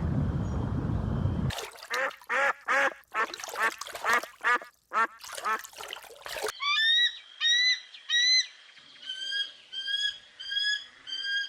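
Duck quacking: a quick run of about a dozen quacks, roughly two a second. It is followed by high, short peeping chirps repeated in small groups of about three.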